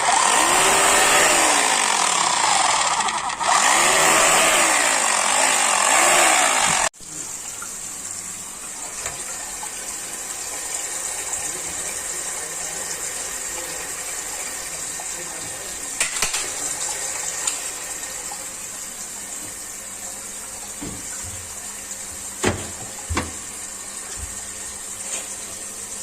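Ladder Man GBH 2-26 1000W rotary hammer drill running loudly for about seven seconds, its motor pitch rising and falling under load, then cutting off suddenly. Afterwards there is a steady rush of running water, with a few short knocks.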